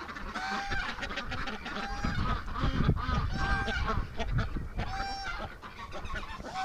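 Domestic goose honking loudly and repeatedly, about five honks spaced roughly a second and a half apart.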